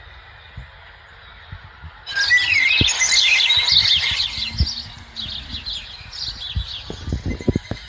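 A flock of small birds chirping and twittering, many at once, starting suddenly about two seconds in, loudest for a couple of seconds and then thinning out to scattered calls. Low scattered thumps sit underneath.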